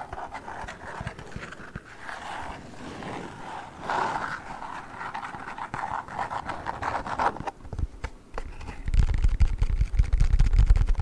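Close-up scratching and rubbing on a play foam package. Near the end it gives way to louder, deep, muffled knocking and rumbling.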